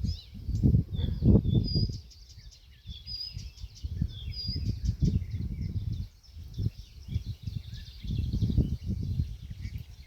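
Several songbirds chirping and singing, among them a short high whistle repeated three times, over an uneven low rumble that swells and fades.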